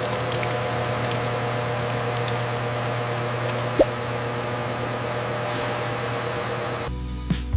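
Steady factory machinery noise with a low hum and a few steady tones, broken by one brief tone about halfway through. Near the end it cuts off abruptly and plucked guitar music begins.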